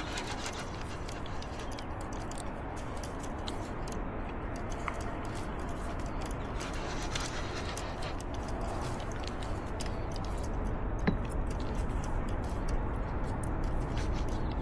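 Steady rushing noise of river water around a kayak, with scattered light clicks and ticks and one sharper click about eleven seconds in.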